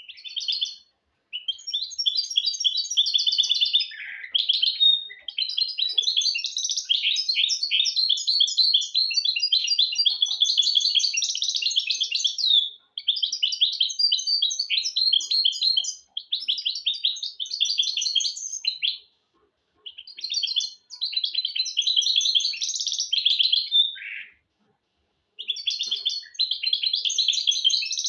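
Goldfinch × canary hybrid (mule) singing: fast, high twittering phrases of trills and chatter, in bursts of a few seconds broken by short pauses.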